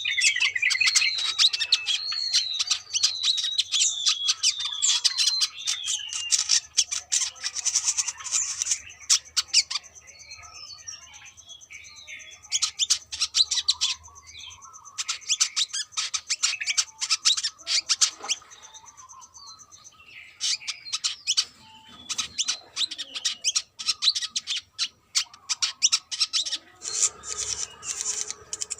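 Brown-throated sunbird singing: in the first few seconds, a run of quick looping whistled notes over dense, rapid high chirps and chattering trills, which thin out in the middle and build up again near the end.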